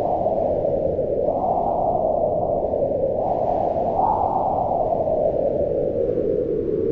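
Howling wind: a steady low rush that swells up in pitch in slow gusts, about a second in and again about four seconds in, then falls back.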